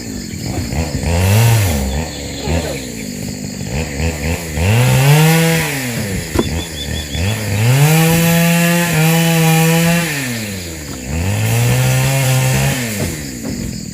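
Two-stroke chainsaw revved again and again: about four times its pitch climbs from a low idle, holds high for a second or two, then drops back to idle, the longest hold near the middle.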